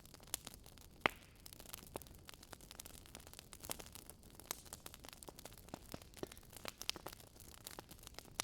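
Wood fire crackling in a fireplace: irregular sharp pops and ticks, the loudest about a second in, over a faint steady low noise.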